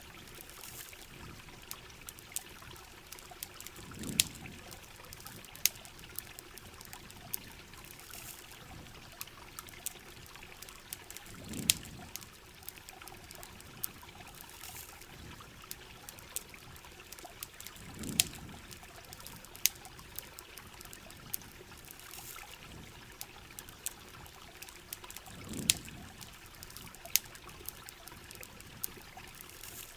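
Steady rain and trickling, running water, with frequent sharp crackles and pops of a campfire. A low whoosh swells and fades about every seven seconds, four times.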